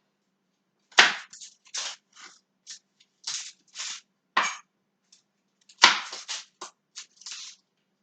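Vegetable knife cutting onion on a chopping board: a string of irregular, crisp cuts and knocks, the two sharpest about a second in and near six seconds.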